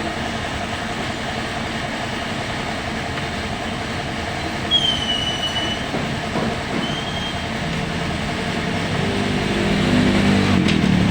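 Steady vehicle and traffic noise, with two short high-pitched squeals about five and seven seconds in and an engine growing louder near the end.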